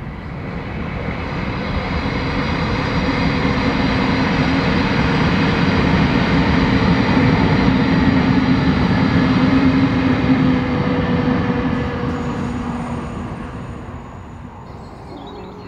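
Passenger train passing: a steady rolling noise that builds over the first few seconds, is loudest around the middle and fades away toward the end.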